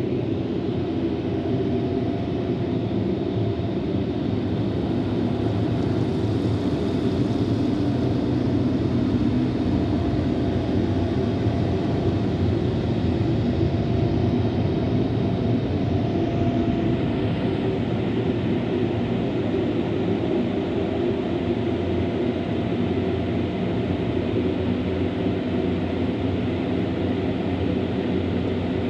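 Automatic car wash machinery running around the car, heard from inside the cabin: a loud, steady rumble and hiss that holds without a break.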